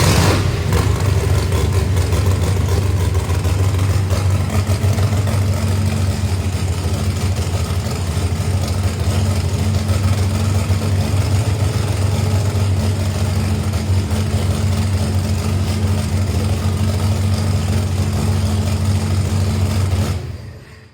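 Big-block Chevy V8 of a 1970 Chevy Nova race car, a supercharged 605 cubic-inch engine, running loud and steady at a fast idle with an even, deep drone and no revving. It cuts off just before the end.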